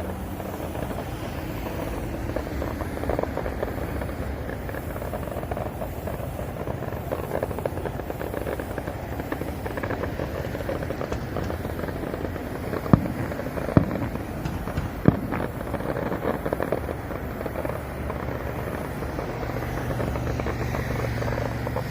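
Fireworks going off: a continuous dense crackling, with three sharp bangs in quick succession partway through.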